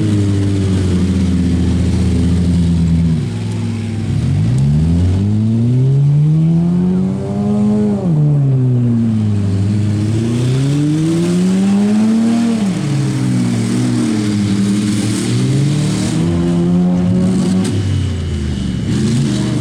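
Compact demolition-derby cars' engines revving hard and easing off again and again, their pitch rising and falling, with several engines running at once.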